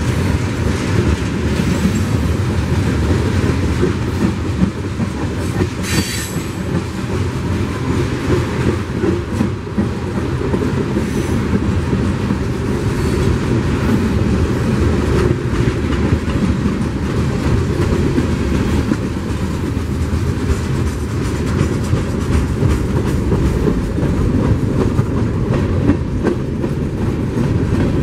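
CSX freight cars (covered hoppers, tank cars and open hoppers) rolling past close by: a steady rumble of steel wheels on the rails, with the clacking of the wheel trucks over the rail joints. A short high wheel squeal about six seconds in.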